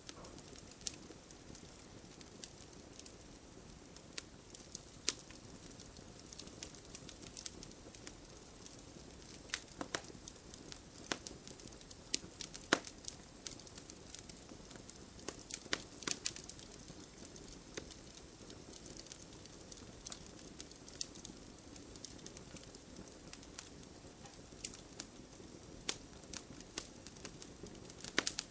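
Wood fire crackling in a fireplace: a steady low hiss broken by frequent irregular sharp pops and snaps.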